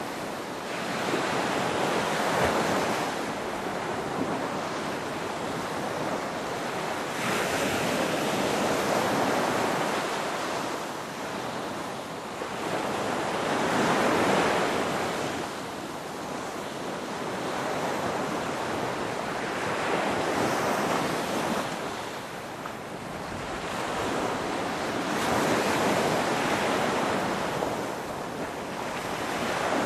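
Ocean surf: waves washing in and drawing back in a steady rhythm, one swell about every six seconds.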